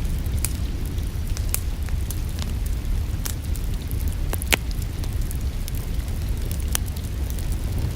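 Wood fire crackling in a fireplace: scattered sharp pops and snaps, about one a second, over a steady low rumble.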